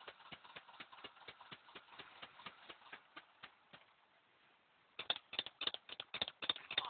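Volvo 240 engine being cranked over by the starter on a cold start without catching: an even beat of about five pulses a second, which stops for about a second and then resumes louder near the end.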